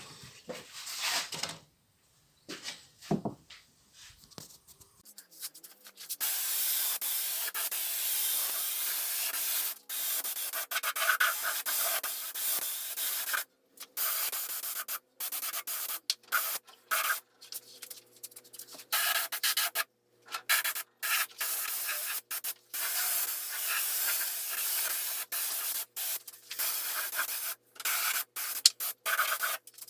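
Sanding: a steady, scratchy hiss in long stretches broken by abrupt gaps, after a few scattered knocks in the first seconds.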